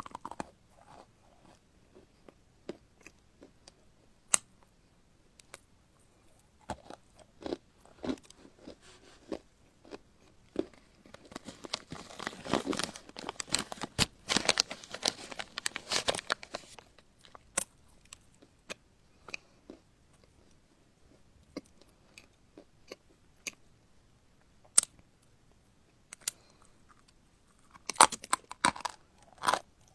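A person biting and chewing crunchy food close to the microphone: scattered sharp crunches, a dense run of crunching chews in the middle, and a loud cluster of bites near the end.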